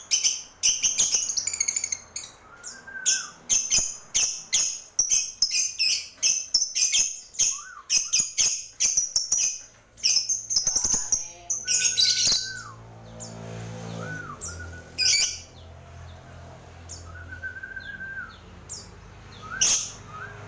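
Small birds chirping in rapid, shrill runs, with a short rising-and-falling whistled note repeating every few seconds. About twelve seconds in the chirping thins out and a low steady hum comes in underneath.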